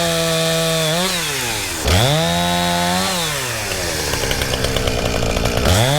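An engine revving up and dropping back in repeated bursts, held high for about a second each time, with a rattling clatter while it runs low between revs.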